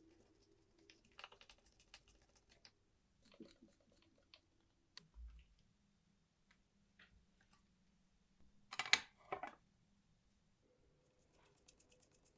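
Light mechanical clicking and ticking of a Schubert arithmometer's mechanism being worked by hand, with a louder double click about nine seconds in.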